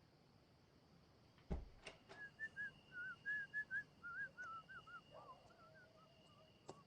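A single thump, then a faint whistled melody of quick notes that bend up and down, with a faint steady high tone underneath.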